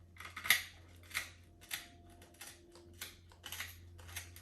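Crisp oven-toasted bread crunching: a run of about seven sharp, crackly crunches spaced roughly half a second apart, the loudest about half a second in.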